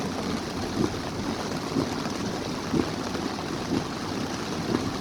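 Heavy rain falling in a steady rush, with a soft thump about once a second.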